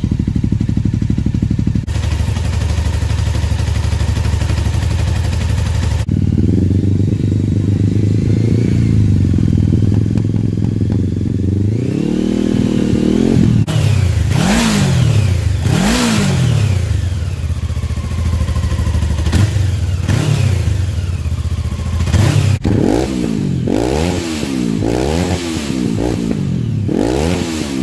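Honda CB500 parallel-twin motorcycle engine idling, then blipped through its exhaust: a few revs rising and falling around the middle, and a quick series of about five revs near the end.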